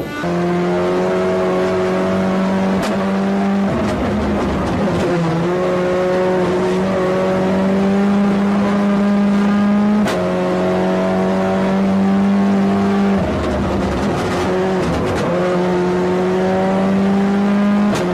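Racing car engine at high revs under hard acceleration. Its pitch climbs slowly in each gear and drops at each of several gear changes and lifts.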